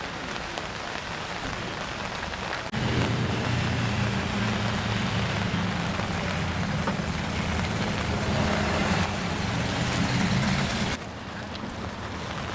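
Rain falling steadily. A car engine runs over it, starting abruptly about three seconds in and cutting off abruptly about two seconds before the end.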